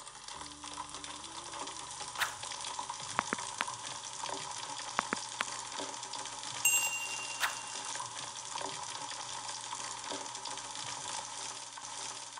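Food frying in hot oil: a steady sizzle with scattered crackles and pops. A short, bright ding sounds about halfway through.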